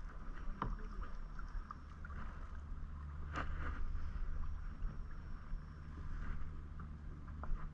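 Kayak paddle strokes: water dripping and splashing off the paddle blades, with a few short knocks about half a second in, about three and a half seconds in and near the end.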